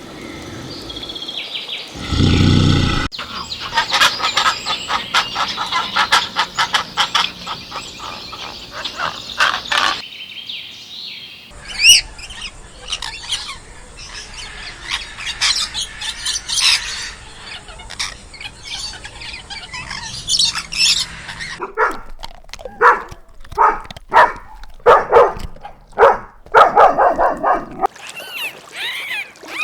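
Birds chirping and calling across several short clips: dense, rapid chirping through the middle, then louder separate calls near the end.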